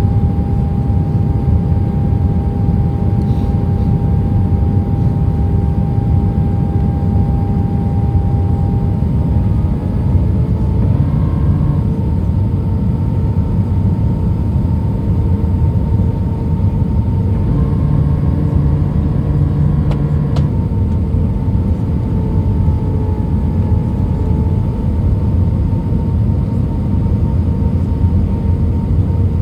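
Jet airliner cabin noise on approach: a steady low rumble of engines and airflow with a humming engine tone that steps up in pitch about ten seconds in. A brief extra hum comes in near the middle and stops with a click.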